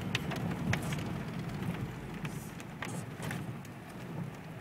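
Car driving slowly over a rough dirt bush track, heard from inside the cabin: a steady low rumble of engine and tyres, with scattered sharp clicks and knocks as it goes over the bumps.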